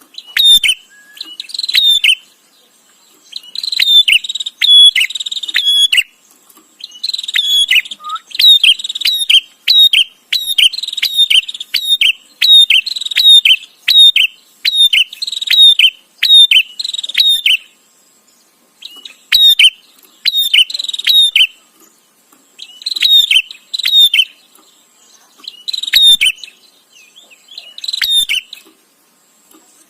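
Prenjak (prinia) calling in rapid, chattering bouts of sharp, high notes, bout after bout with short gaps and one longer pause just past the middle.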